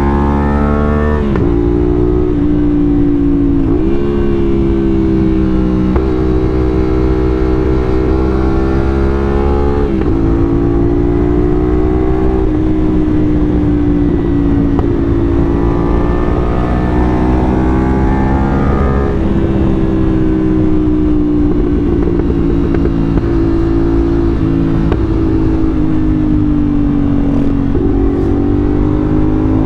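CFMoto 450SR's parallel-twin engine running under way on the open road. The engine note climbs and drops sharply as it shifts up, about 1, 4 and 10 seconds in, then holds with slower rises and dips.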